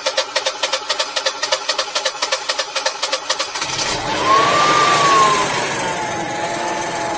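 Generac Guardian 4456 home standby generator's engine starting on its exercise cycle: the starter cranks it with rapid even pulses, it catches about three and a half seconds in, revs up, then settles to a steady run.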